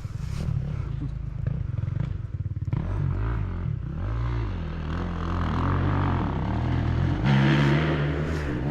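Dirt bike engine revving, its pitch rising and falling several times as the bike is ridden, getting louder near the end as it comes closer.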